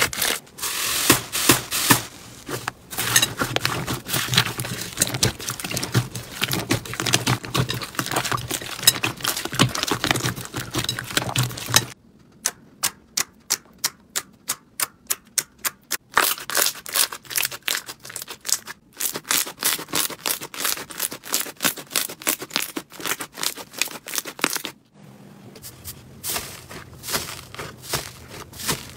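Slime being squeezed and pressed by hand: dense crackling and popping clicks, with a run of evenly spaced clicks, about five a second, partway through. The sound changes abruptly several times as one clip cuts to the next.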